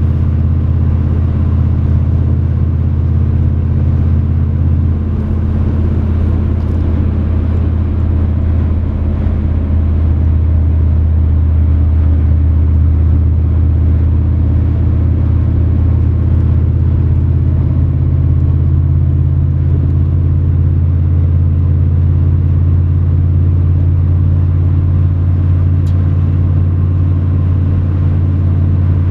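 1993 Chevrolet 1500 4x4 pickup truck driving, its engine running with a steady low drone; the engine note shifts slightly about nine seconds in.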